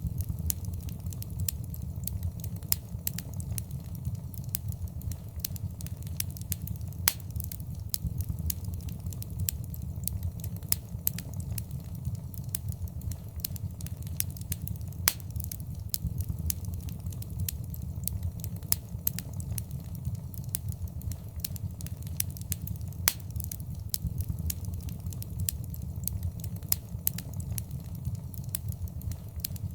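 Fire burning in a fireplace: a steady low rumble of flames with irregular crackles and a few sharper, louder pops.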